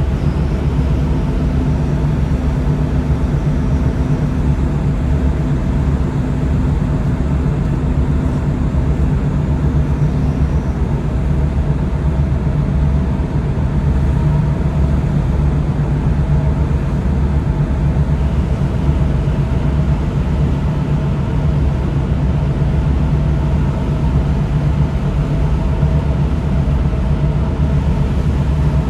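Tugboat engine running with a steady low hum, under a constant even rush of noise.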